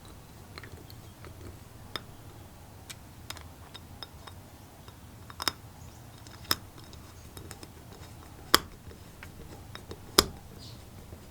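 Irregular sharp clicks and taps of small parts and hand tools being handled on a workbench, with a few louder knocks in the second half.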